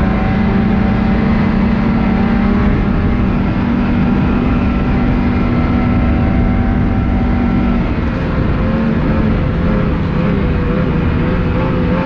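Ski-Doo Renegade 600R snowmobile's two-stroke E-TEC engine running steadily at trail speed, its pitch dropping a little about eight seconds in as it eases off.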